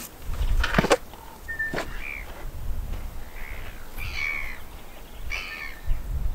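A bird calling about four times, short arched harsh calls spaced roughly a second apart, over a low outdoor rumble. A couple of sharp knocks come in the first two seconds.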